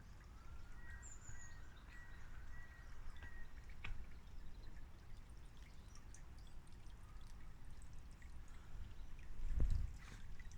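Wild birds singing and calling, thin whistled phrases in the first few seconds and scattered short chirps after, over a steady low rumble. A louder low thump comes near the end.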